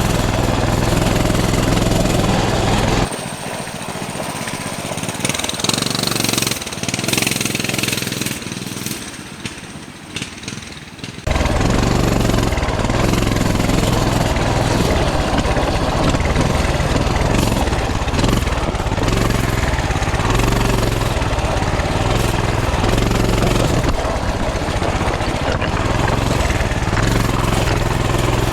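Coleman CT200U mini bike's small single-cylinder four-stroke engine running as it is ridden over rough, rocky ground, a steady low pulsing drone. About three seconds in the engine sound drops away to a quieter hiss for some eight seconds, then comes back just as loud.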